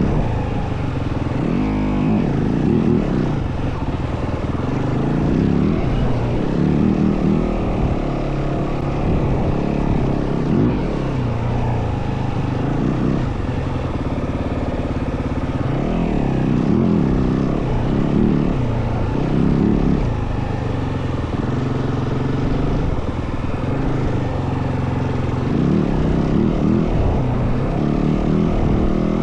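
Yamaha WR450F single-cylinder four-stroke dirt bike engine under way, its pitch rising and falling again and again as the throttle is opened and closed, over constant rushing noise.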